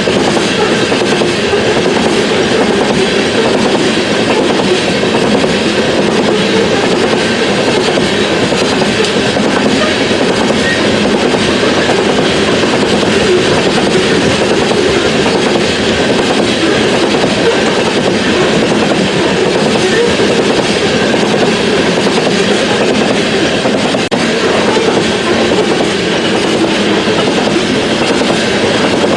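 Train cars rolling past on the rails: a continuous, steady clatter of wheels on track.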